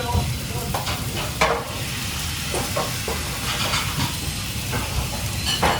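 Food frying with a steady sizzle in a busy restaurant kitchen, with scattered clinks and clatter of pans and utensils every second or so.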